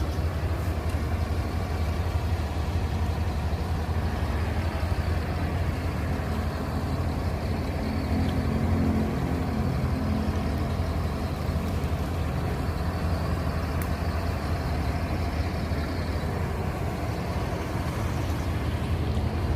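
Vehicle engine running steadily, a constant low drone.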